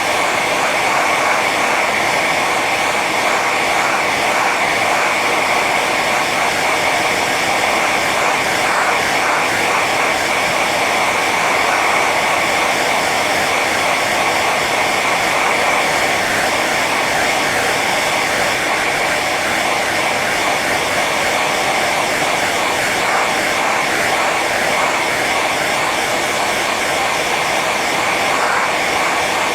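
Hair dryer running steadily on its high setting: a constant rush of blown air with a steady whine from the fan motor.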